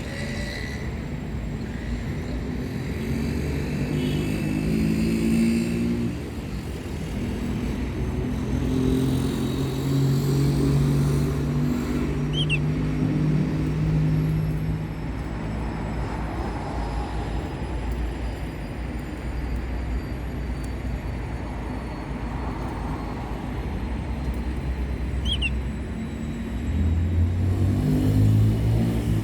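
Motor vehicle engines running and passing, their pitch rising and falling over several seconds over a steady low rumble, with two brief high chirps about twelve and twenty-five seconds in.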